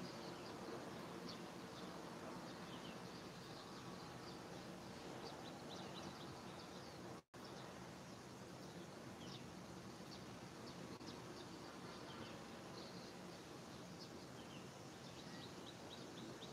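Faint outdoor ambience: a steady distant hum with scattered short, high bird chirps throughout. The sound cuts out completely for an instant about seven seconds in.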